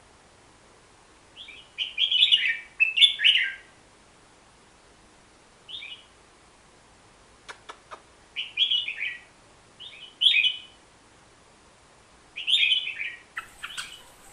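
Merbah jambul bulbul singing: short bursts of quick chirping phrases, about five of them, with pauses between. A few faint clicks come around the middle.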